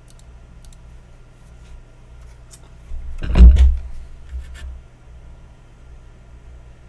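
Handling noise: scattered faint clicks and one low thump with rattling clicks about three and a half seconds in, over a steady low hum.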